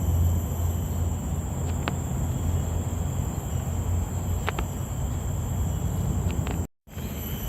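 Insects trilling steadily in high, thin tones over a constant low rumble, with a few faint ticks; the sound cuts out completely for a moment near the end.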